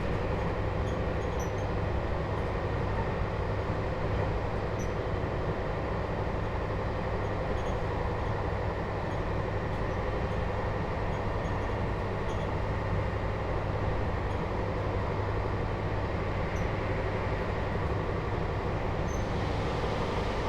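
Cabin running noise of a JR Hokkaido 721 series electric train's motor car at steady speed: an even rumble of wheels on the rails that holds level throughout.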